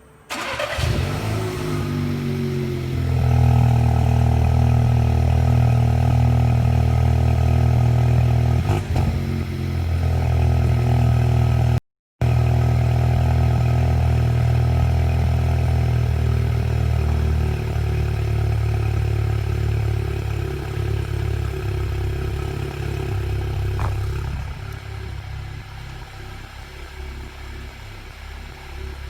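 Volkswagen Scirocco 1.4 TSI four-cylinder engine with its rear silencer deleted, starting up and running at a raised idle through the straight-through exhaust, then dropping to a lower, quieter idle near the end.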